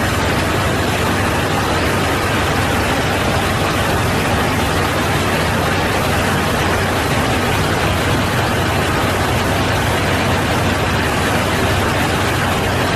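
Steady, unbroken roar of an airliner's engines and rushing airflow, with a constant low hum underneath.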